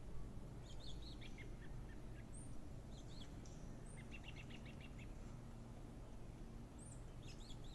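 Small birds chirping in short scattered bursts, with a quick run of rapid notes about four seconds in, over a low steady background rumble.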